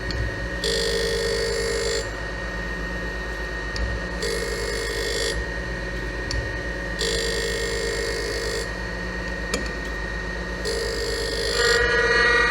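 Boyar-Schultz 612 surface grinder running steadily while its table traverses back and forth. A hissing, ringing grinding sound comes and goes about every three seconds as the wheel passes over the work. This is a pass with no extra down-feed, so the wheel is only lightly in contact. The ringing gets louder near the end.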